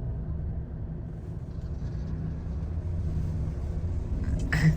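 Steady low rumble of a moving Mahindra Thar's engine and road noise, heard from inside the cabin. A brief louder, higher sound comes near the end.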